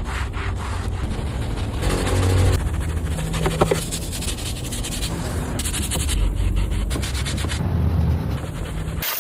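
Scrubbing and rubbing on a car's surface during detailing, in several short clips joined with abrupt cuts, over a steady low rumble.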